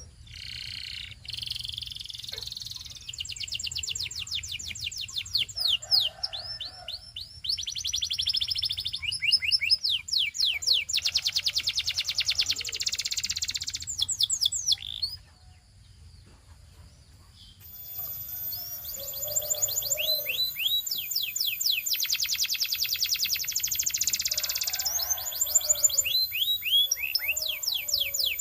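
Canary singing in long rolls of fast trills and rapidly repeated sweeping notes. The song breaks off for about two seconds roughly halfway through, then resumes.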